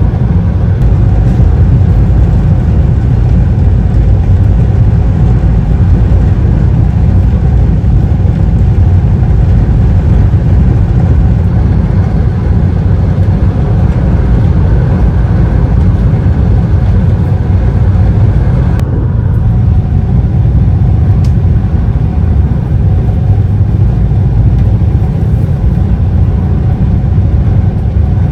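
Engines of the Super Jet Miyajima high-speed passenger craft running underway, a loud, steady low rumble. The higher hiss above it drops away suddenly about two-thirds of the way in.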